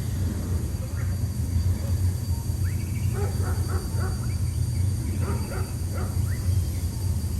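Short dog-like barks and yips in quick clusters, played as scenery sound effects along the river, over a steady low rumble of the riverboat.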